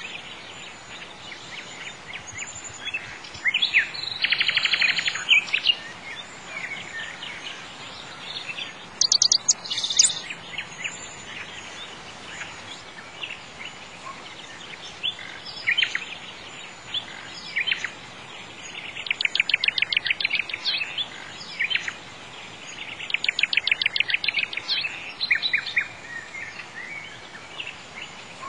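Songbirds chirping, with several rapid trills of quickly repeated notes, over a steady background hiss.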